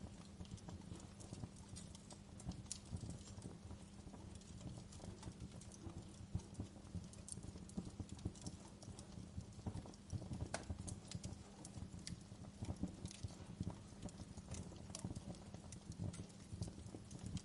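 Wood fire crackling: irregular pops and snaps over a steady low rumble.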